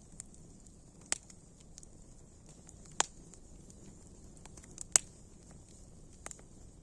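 Wood fire crackling: a soft steady hiss with a handful of sharp pops scattered through it, the loudest about five seconds in.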